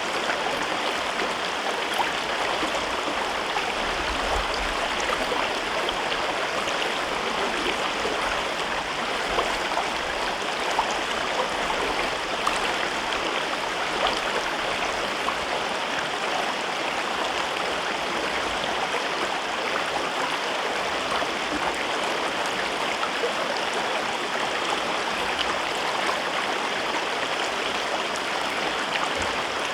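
A gorge river running steadily, a continuous babbling rush of water.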